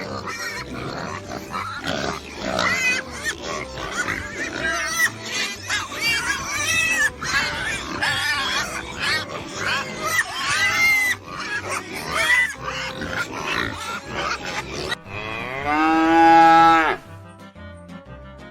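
A busy mix of overlapping livestock calls, then one long, loud cow moo about fifteen seconds in, over background music.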